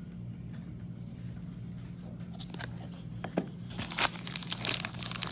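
Trading cards and plastic wrapping or sleeves being handled: quiet at first, then from about three and a half seconds in a dense run of plastic crinkling and crackling, over a steady low hum.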